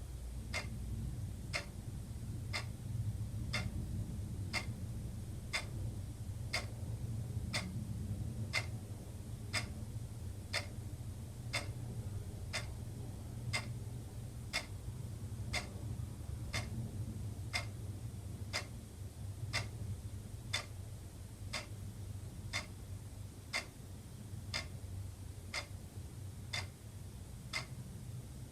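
Wall clock ticking steadily, one sharp tick about every second, over a low steady hum.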